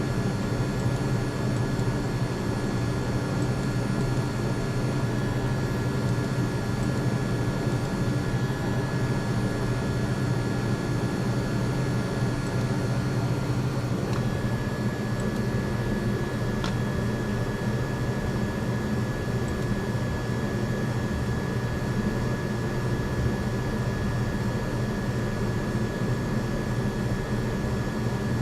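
Steady mechanical hum with a few faint whining tones above it, running evenly without a break; one of the higher tones shifts slightly about halfway through.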